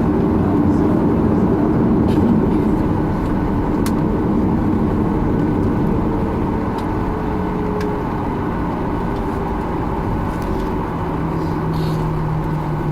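Steady cabin rumble inside a Boeing 737-800 as its CFM56-7B engines idle after landing, while the aircraft taxis onto or holds short of its stand. A faint steady hum comes in about halfway through, and there are a few light clicks.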